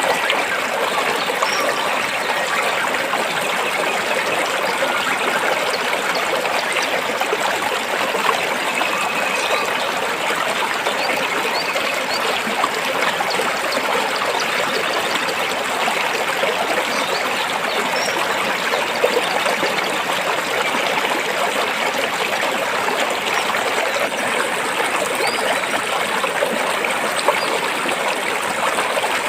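Stream water flowing and trickling between rocks, a steady, unbroken rushing.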